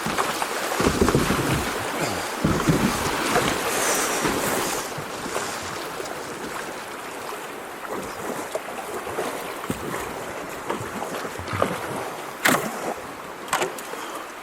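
Kayak paddling through a shallow, rocky creek: running water and paddle splashes around the boat, with a few sharp knocks near the end.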